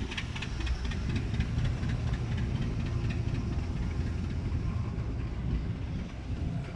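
An engine idling steadily: a low rumble with faint rapid ticking over it in the first couple of seconds.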